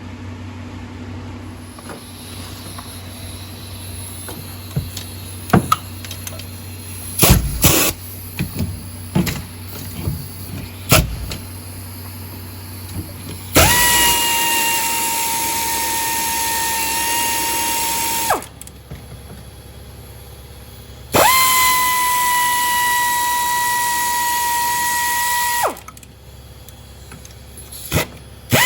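Handheld power tool motor running in two steady high-pitched spells of about five seconds each in the second half, spinning out fasteners during an engine top-end teardown. Before that come scattered clinks and knocks of tools and parts.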